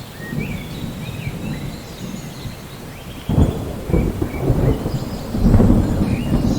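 Steady rain during a thunderstorm, with thunder rumbling low. The rumble swells suddenly about three seconds in and grows louder again near the end.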